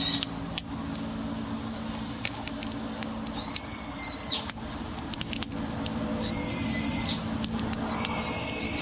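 Small wood fire crackling with scattered sharp snaps over a steady low hum, while a bird gives three drawn-out high calls, each about a second long, the first near the middle and two more near the end.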